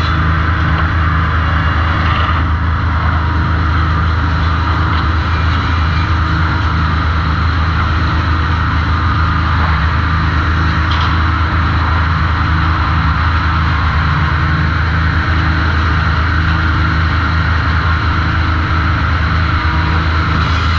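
Sawmill machinery at a trim saw station running steadily: a loud, constant low hum with a regular pulsing underneath and a hiss of higher noise over it.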